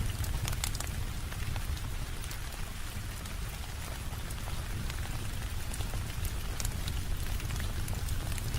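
Steady rain on a window: an even wash of rain with many scattered sharp drop taps over a low, constant rumble.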